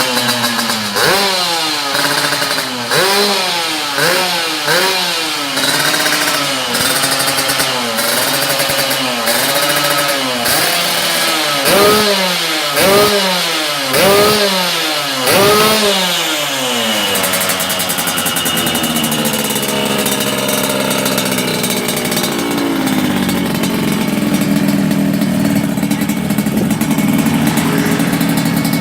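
Yamaha RX-King two-stroke single revved through an aftermarket under-belly racing expansion-chamber exhaust: a string of quick throttle blips, about one a second, each rising and falling in pitch, then dropping to a lower, slightly wavering idle for the last dozen seconds.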